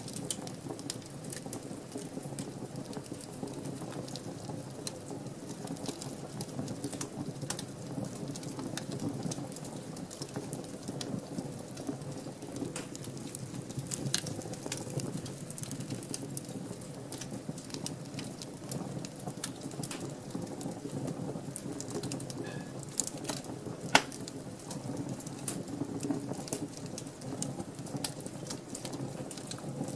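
Wood fire burning in a fireplace: a steady low rush of flames with frequent crackles and snaps, and one loud pop near the end.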